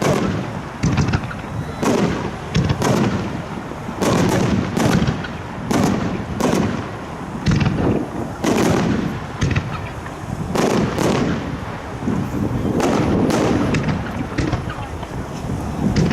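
Fireworks display: aerial shells bursting in rapid succession, sharp cracks over a continuous rolling boom and echo.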